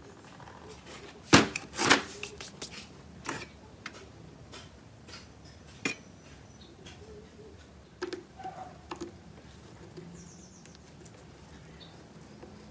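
Scattered clinks and knocks of hard objects being handled, the two loudest close together about a second and a half in, with a few lighter taps later.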